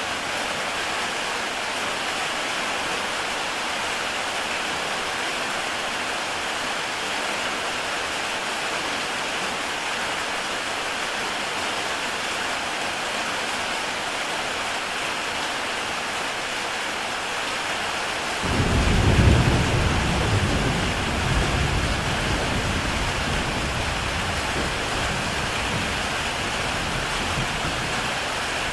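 Heavy rain falling steadily on a tile roof, an even hiss. About two-thirds of the way through, a low rumble of thunder breaks in suddenly, peaks within a second or two and rolls on, fading slowly.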